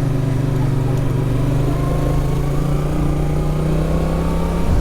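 Motorcycle engine running at a steady cruising speed, its note holding level until it breaks off just before the end, as if the throttle is rolled off.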